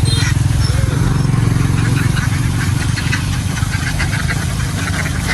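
A truck engine idling steadily with a fast, even low pulse.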